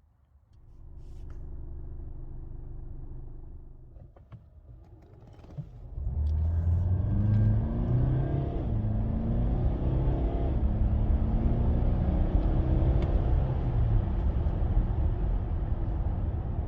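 Mercedes-Benz GLC 300 de plug-in hybrid's four-cylinder diesel accelerating hard from about six seconds in. The engine note climbs, drops back at each gear change and climbs again. Before that there is a quieter low hum for a few seconds.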